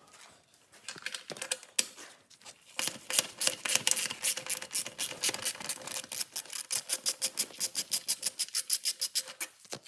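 Ratcheting 12 mm wrench clicking as the exhaust mounting bolt is backed out: a few scattered clicks, then from about three seconds in a fast, even run of clicks, about six a second.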